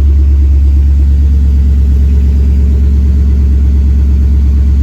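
Twin-turbo 5.3-litre V8, running on E85, idling steadily shortly after a cold start. The owner puts the rattle in the cold engine down to piston slap from its forged pistons, which quiets once the motor warms.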